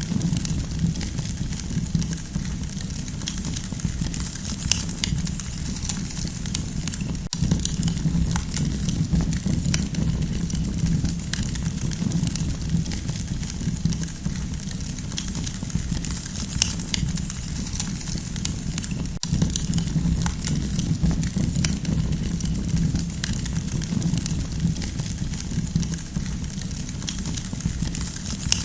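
Campfire burning: a steady low rumble with frequent sharp crackles and pops scattered all through.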